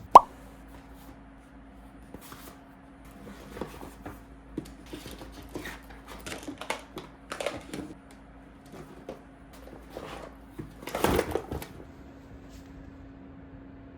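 Packaging being handled during an unboxing: scattered rustles, taps and small clicks, with a louder stretch of rustling about eleven seconds in and a short sharp squeak at the very start.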